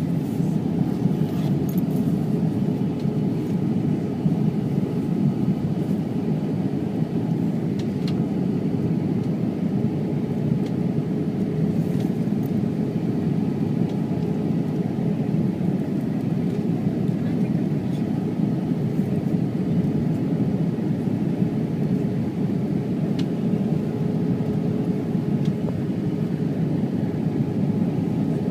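Jet airliner cabin noise: a steady drone of engines and airflow with a faint steady tone, and a few light clicks.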